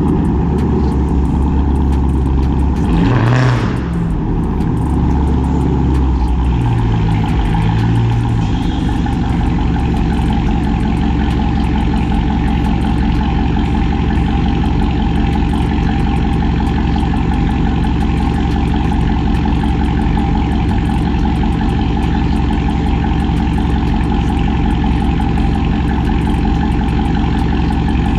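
Cammed, catless straight-piped Chrysler 300C Hemi V8 exhaust running with a loud, steady low rumble; the engine note shifts over the first several seconds, then holds even.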